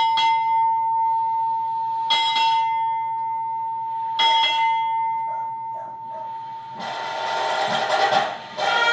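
A ship's bell struck three times, about two seconds apart, each stroke ringing out. Under the strokes a single long, steady whistled note is held and then stops. Near the end, ensemble sound swells into brass band music.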